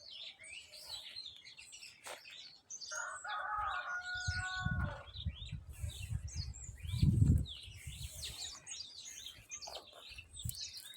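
Small birds chirping and twittering throughout, with a longer call held on a few steady pitches from about three to five seconds in. Low rumbling thumps, loudest about seven seconds in, run under the birdsong.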